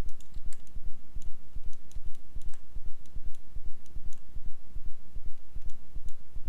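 Scattered sharp clicks of a computer mouse and keyboard being used, over a loud, low pulsing rumble.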